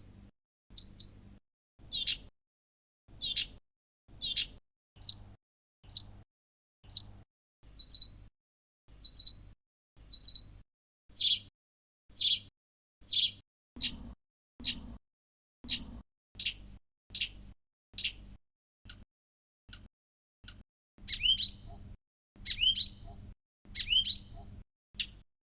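Blyth's reed warbler giving short, high calls one after another, about one a second, many of them quick downward-sweeping notes, with silent cuts between. Near the end the notes turn into longer, more complex phrases.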